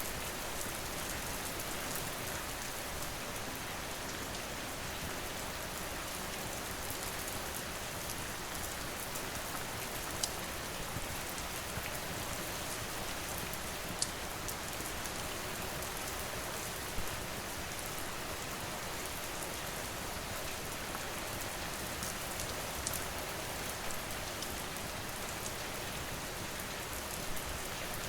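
Steady rain falling, with a few sharp pops of a crackling wood fire now and then.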